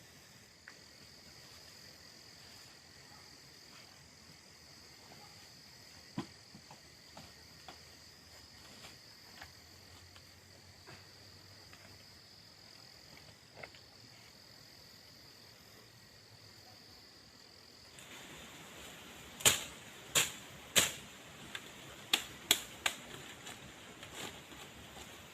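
Insects trilling steadily, with a few faint clicks. About three-quarters of the way through the background changes and a run of six sharp knocks follows, in two quick groups of three.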